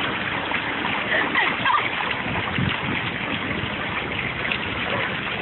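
Water fountain running and splashing steadily.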